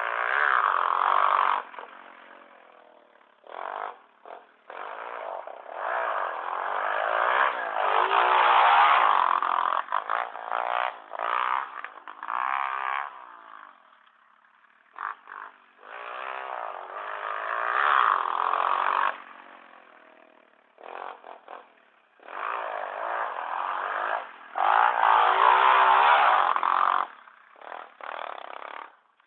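Pit bike engine revving up and dropping off again and again as the throttle is opened and closed, with several short lulls where it goes almost quiet.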